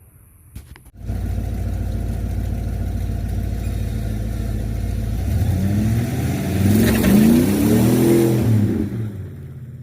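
Pickup truck engine running with a steady low rumble that comes in abruptly about a second in, then revving in several rising and falling sweeps, loudest about seven to eight seconds in, before dying away near the end.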